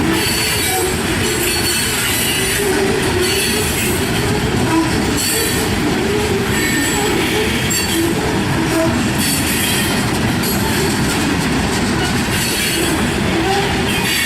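Freight train cars rolling past in a steady loud rumble, steel wheels giving short, scattered high-pitched squeals.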